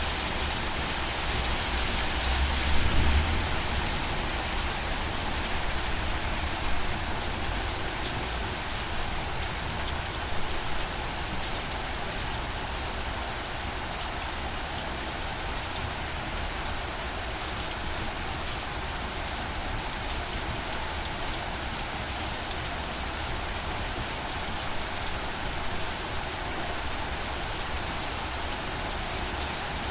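Steady rain falling, an even dense patter of drops on a surface, with a brief low rumble about three seconds in.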